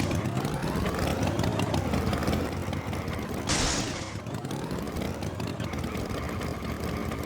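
Tractor engine sound effect running steadily, its pitch slowly rising and falling, with a short burst of hiss repeating about every four seconds.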